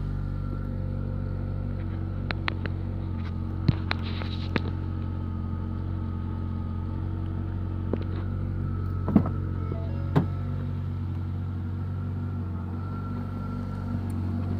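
A 2011 Ford Focus's four-cylinder engine idling steadily shortly after a cold start in sub-freezing weather. A few short sharp clicks sound over it, two of them louder, a little past the middle.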